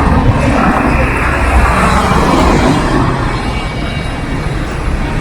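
Busy street noise: steady traffic sound with a heavy low rumble.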